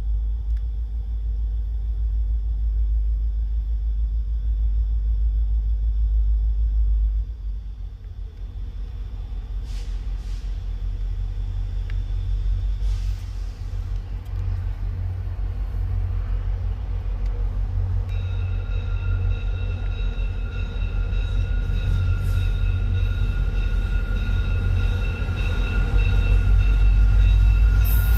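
Passenger train with F40PH-2 diesel locomotives approaching: a low rumble that eases about seven seconds in, then builds steadily toward the end. Several steady high-pitched tones join about two-thirds of the way through.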